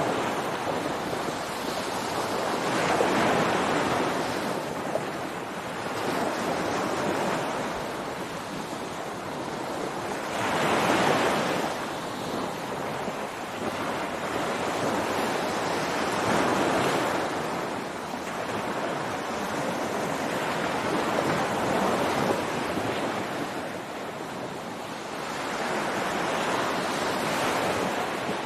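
Ocean surf breaking on a beach: a steady wash of water that swells with each incoming wave and eases between them, about every five or six seconds.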